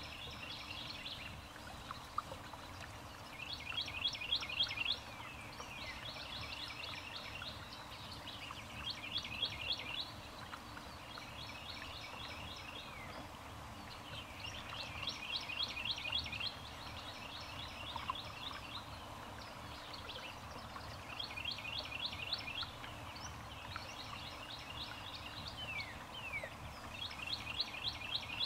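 Songbird singing a short, rapid trill, about a second long, repeated every few seconds, with a few brief falling call notes, over a steady low hiss.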